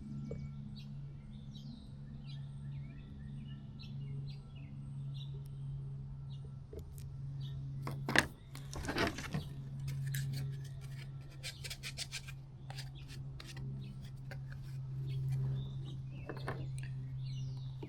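Small clicks and a brief rustle from hands handling and fitting plastic tail light pieces, over a steady low hum. The clicks cluster a little past the middle and again near the end.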